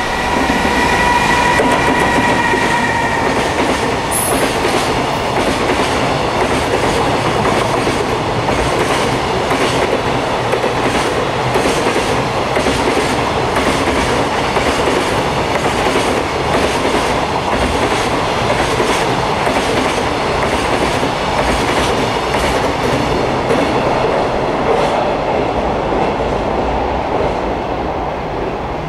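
Electric-hauled container freight train passing through, with a steady rush of wheels on rail and frequent clicks as the wagons cross rail joints. A steady high tone sounds for the first few seconds as the locomotive comes by.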